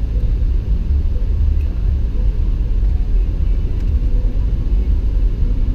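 Jeep driving on snowy roads: a steady low rumble of engine and road noise.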